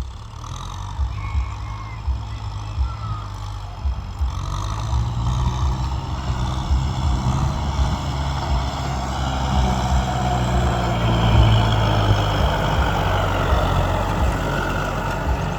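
Kubota M6040 tractor's diesel engine running steadily, getting louder from about a third of the way in, with low thumps underneath.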